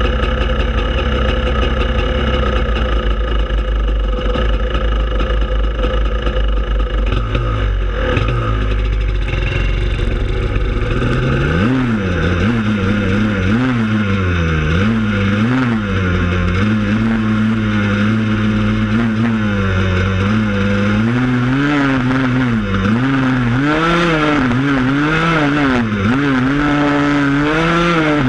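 Four-wheeler (ATV) engine running: a steady low rumble at first, then from about twelve seconds in it revs up and down again and again as the throttle is worked.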